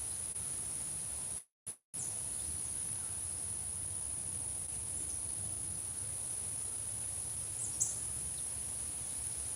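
Steady high-pitched insect chorus over a low outdoor rumble, with a single short, high bird chirp about eight seconds in. The sound drops out briefly about a second and a half in.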